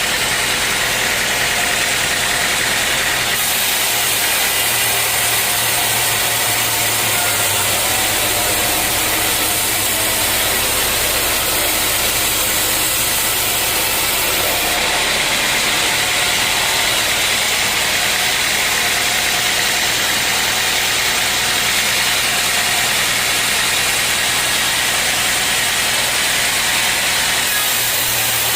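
Sawmill machinery running steadily with a loud engine-like drone and dense hiss; the low hum shifts in pitch a few times.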